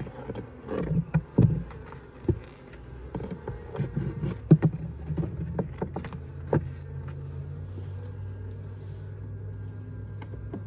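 Wooden hive frames knocking and clunking as they are set into a horizontal Layens hive box, over the steady low hum of a honeybee colony. The knocks stop after about seven seconds, leaving only the hum.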